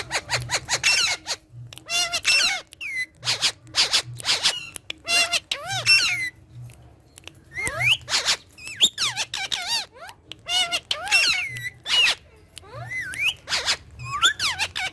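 Green parrot making a rapid series of short squawks, squeaks and chirping whistled calls that bend up and down in pitch, with brief gaps between them.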